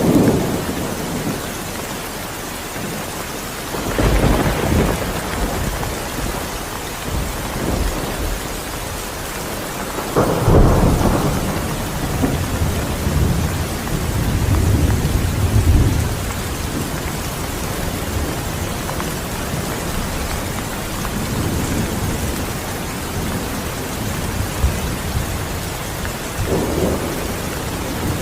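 Steady rain with rolling thunder: low rumbles swell up about four seconds in, again around ten seconds (the loudest), and several more times later.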